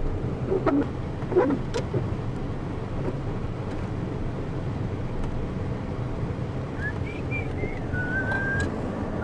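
Car driving on snowy streets: a steady low rumble of engine and road noise. A thin, wavering high whistling tone comes in near the end.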